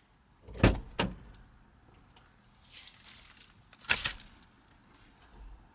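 Knocks and thuds of a car door and gear being handled: two quick knocks about half a second apart near the start, a short rustle, then another knock about four seconds in.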